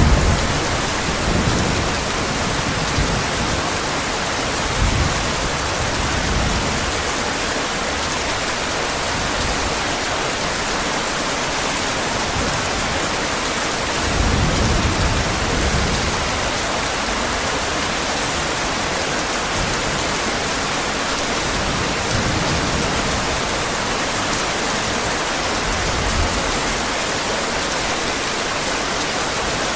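Heavy rain falling in a steady hiss, with low rolls of thunder now and then: one fading away at the start and the strongest about halfway through.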